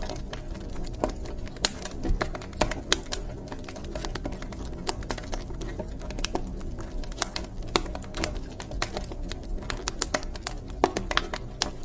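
Wood fire crackling in a fireplace: irregular sharp snaps and pops, a few louder than the rest, over a steady low rumble of burning.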